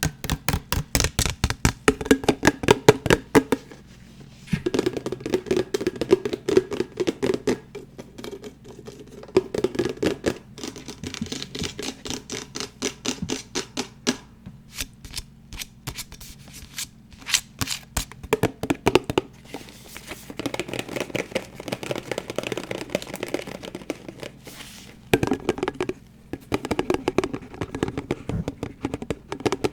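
Fast tapping and scratching on assorted hard objects, for ASMR: quick runs of many taps a second in bursts, with brief pauses between them.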